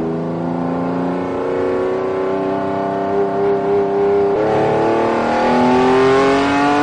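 Car engine accelerating, its pitch climbing slowly, with a gear change about four and a half seconds in, after which it climbs again.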